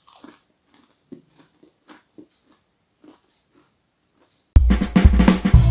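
Someone biting into and chewing crisp cornmeal-fried catfish nuggets: a faint crunch, then soft chewing crackles every half second or so. About four and a half seconds in, loud music starts suddenly.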